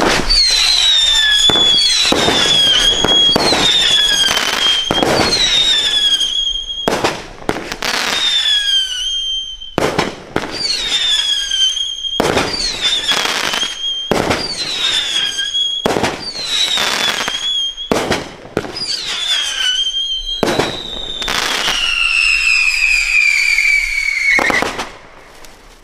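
Winda 'Occupy Mars' 10-shot cake and girandola firing: a rapid series of sharp cracks, most followed by a high whistle that falls in pitch over about a second, one every one to two seconds. Near the end comes one longer falling whistle lasting about four seconds, which cuts off abruptly.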